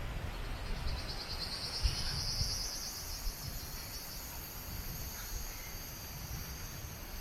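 An insect singing a high, steady buzzing song that comes in about a second and a half in, over a low rumble.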